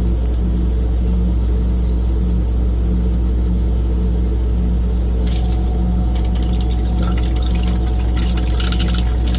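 Manitowoc ice machine's water circulating pump running with a steady low hum while water splashes and trickles through the machine, the splashing growing louder from about five seconds in. The pump has a pinhole in the side of its housing.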